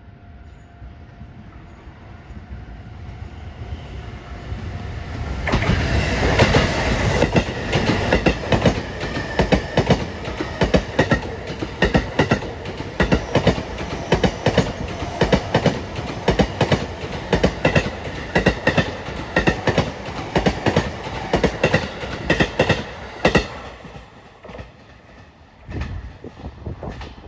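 JR East E233-3000 series electric train, two sets coupled, passing close by while accelerating, its wheels clacking over the rail joints in a rapid, regular clickety-clack. It builds up over the first few seconds, is loud from about five seconds in, and dies away after about twenty-four seconds as the last cars go by.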